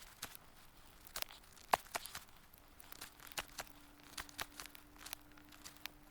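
Wood fire crackling: irregular sharp snaps and pops, one louder snap near the two-second mark, with a faint steady hum joining about halfway through.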